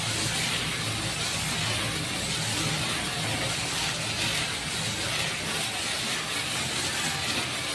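A small lit firework burning with a steady hiss that does not let up.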